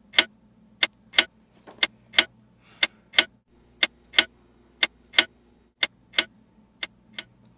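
Clock ticking steadily, a tick-tock pair of sharp clicks each second, over a faint low hum.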